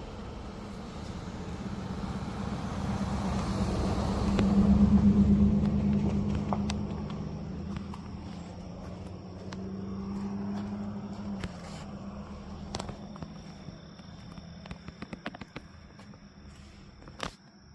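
A passing train rumbling with a steady engine drone. It builds to its loudest about five seconds in, then slowly fades. Scattered clicks and crackles come in the last few seconds.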